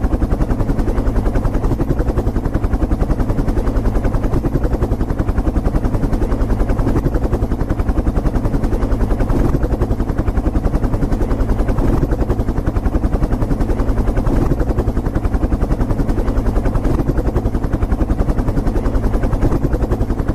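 Helicopter rotor blades chopping in a fast, steady rhythm, unchanged throughout.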